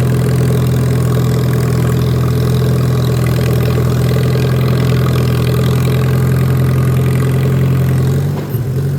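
Lawn mower engine running steadily with an even low hum; a little after eight seconds in it drops in level and its pitch shifts.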